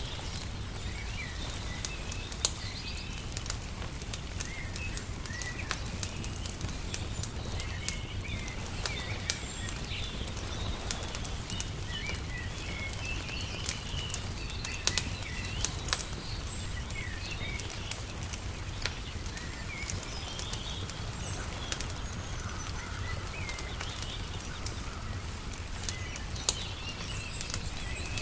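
Wood fire crackling, with scattered sharp pops, while small birds chirp on and off throughout, over a steady low background rumble.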